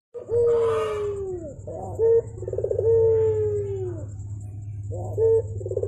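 Barbary (ringneck) dove cooing repeatedly. Each coo is a short note, then a quick rolling stretch, then a long note that slides down in pitch, with a steady low hum underneath.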